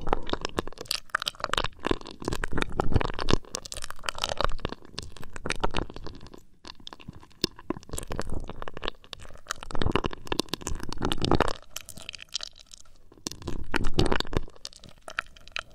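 Fingers flicking, tapping and rubbing on an ear-shaped binaural ASMR microphone: dense close crackling and scratching that comes in uneven swells.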